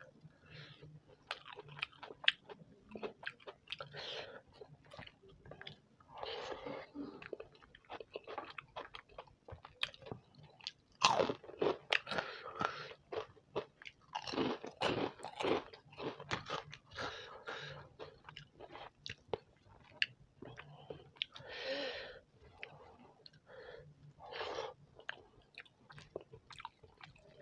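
A person eating close to the microphone: steady chewing and biting with sharp crisp crunches and wet mouth sounds, busiest and loudest a little before the middle.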